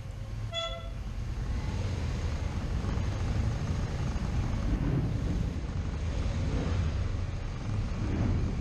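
Motorcycle engine running on the ride, with wind noise on the microphone. A brief high tone sounds about half a second in.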